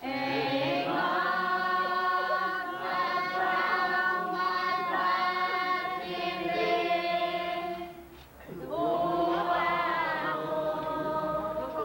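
A group of voices singing a hymn together in long held notes, with a brief pause about eight seconds in before the singing resumes.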